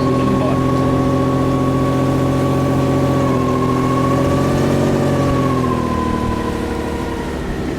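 A motor vehicle's engine running with a steady drone. Its pitch rises slightly about five seconds in, then drops and the sound eases off.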